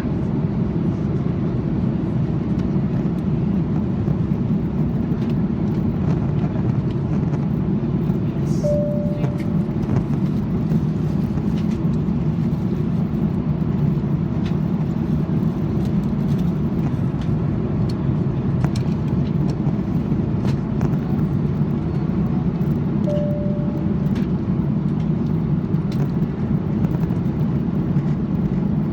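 Steady roar of an Airbus A330-200 airliner heard from inside the passenger cabin, engine and airflow noise in a deep, even rumble. Two short single-note tones sound over it, about 9 and 23 seconds in.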